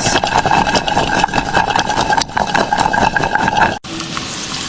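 A vehicle engine running with heavy rattling. It cuts off abruptly near the end and gives way to a steady hiss.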